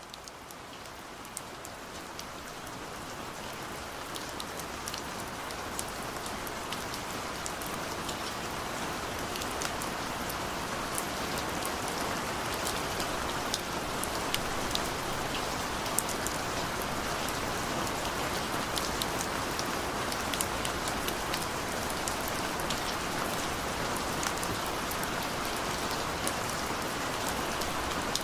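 Steady rain falling, a dense even hiss with many separate drops ticking sharply on a surface. It fades in over the first few seconds, then holds steady.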